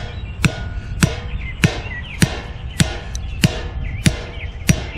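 A piece of scrap lumber being pounded into the soil beside a bird feeder pole, about eight steady blows roughly half a second apart, wedging the pole straight.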